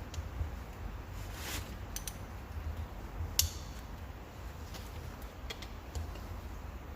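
A wrench turning the injector rocker arm bolts on a 1.9 TDI PD cylinder head: a few sharp metal clicks and taps, the loudest about three and a half seconds in, over a low steady hum.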